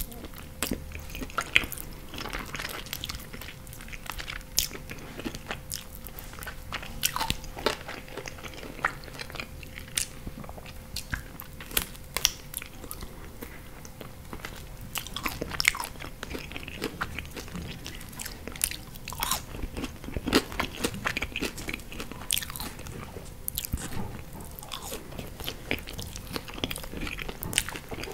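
Close-miked chewing and biting of chicken wings in pizza sauce with melted cheese: a continuous run of sharp, wet mouth clicks and smacks.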